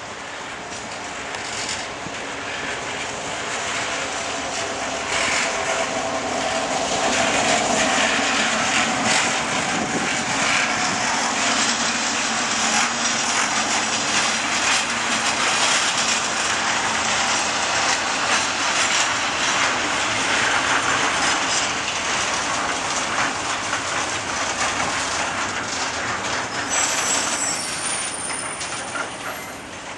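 Freightliner diesel locomotive passing close by at the head of an intermodal container freight train. The sound grows louder over the first several seconds as it approaches, then the container wagons rumble and clatter past on the rails, easing off near the end.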